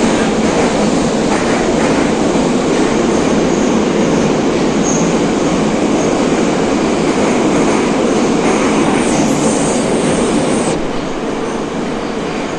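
Metro train running through the tunnel, heard from inside the carriage: a loud, steady rumble of wheels on rail. About nine seconds in there is a brief high wheel squeal, and the noise drops a little near the end.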